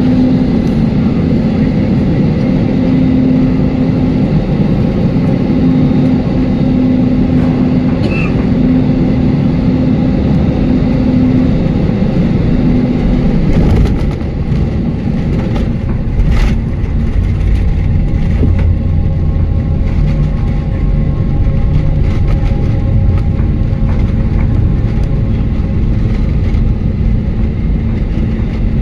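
Airliner cabin noise during a landing: steady engine and airflow noise with a low hum. About halfway through there is a sharp knock, followed by a heavier low rumble.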